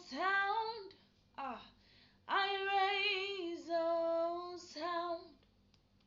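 A single high voice singing a worship song unaccompanied, in long held notes with short breaks between phrases, and falling silent about a second before the end.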